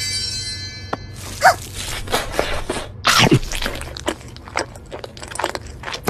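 Eating sounds: irregular crunching and clicking, with a short high call about a second and a half in and a sharp downward swoop about three seconds in.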